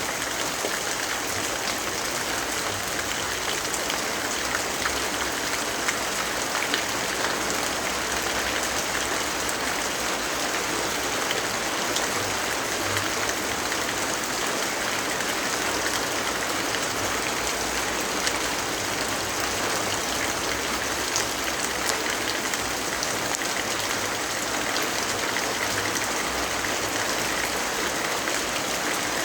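Steady rainfall: an even, unbroken hiss with scattered small drop ticks.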